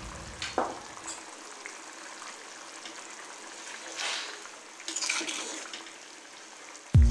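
Prawn curry simmering in a kadai, a steady bubbling hiss, with a ladle stirring through it and scraping the pan a few times, notably about four and five seconds in. Right at the end a much louder, rhythmic clatter suddenly starts.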